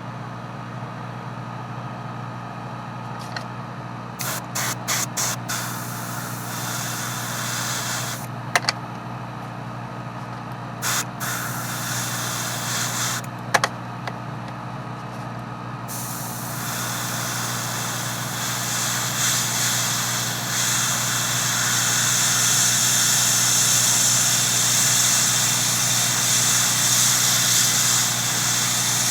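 An airbrush worked by a running compressor: a steady motor hum with several short spurts of air about a third of the way in, then continuous spraying of paint from about halfway on.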